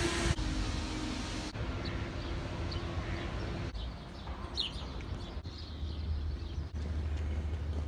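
Outdoor ambience with birds chirping over a low rumble. The background changes abruptly every second or two where short clips are cut together.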